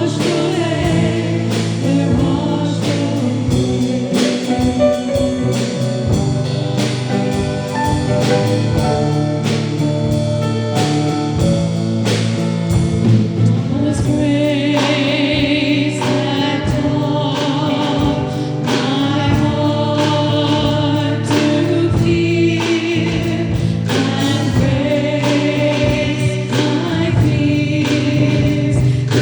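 Choir singing a worship song with instrumental accompaniment and a steady beat.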